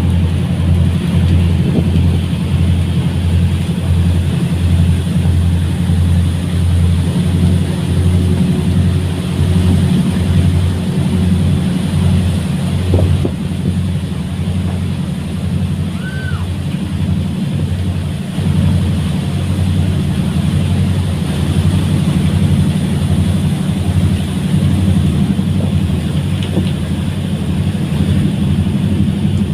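Fast ferry's engines running with a loud, steady low drone that pulses in a regular rhythm.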